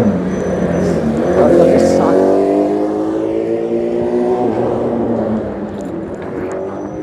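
A car engine accelerating, its pitch rising steadily for a few seconds before it fades away.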